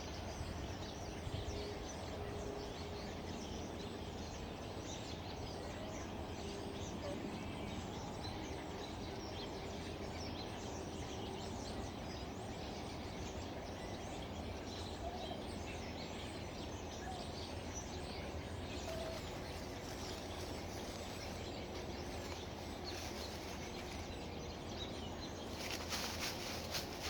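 Forest birds singing and calling, many short chirps, over a steady low background rumble. Near the end, a burst of crackly rustling noise.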